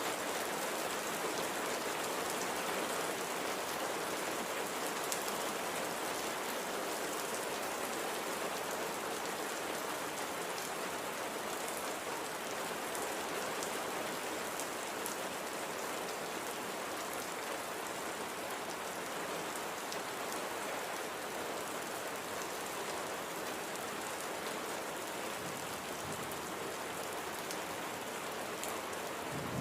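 Light, steady rain falling, with faint scattered drop ticks over an even hiss.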